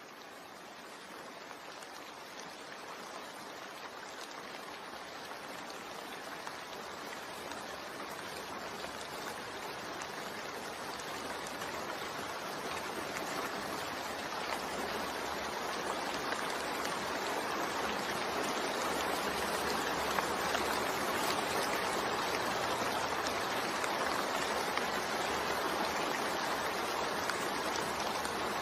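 Steady rain, a dense even hiss of falling drops. It fades in over the first twenty seconds or so, then holds steady.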